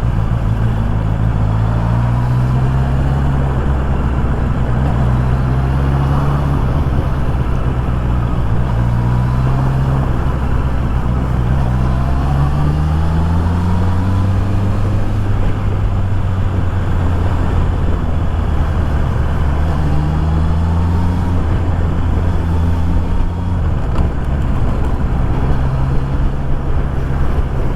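Honda CB650R's inline-four engine running under way, its note climbing and dropping again and again as the throttle is opened and closed, heard from inside the rider's helmet with road and wind noise.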